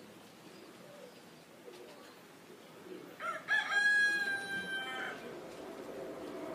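A rooster crowing once, about three seconds in, a single held cock-a-doodle-doo of about two seconds. Faint pigeon cooing starts near the end.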